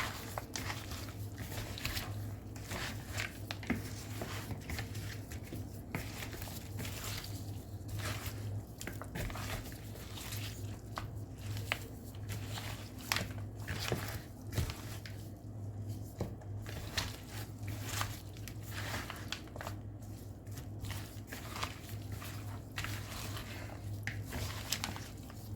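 Raw chicken pieces being rubbed and squeezed with wet seasoning by gloved hands: irregular squelching and crinkling, over a steady low hum.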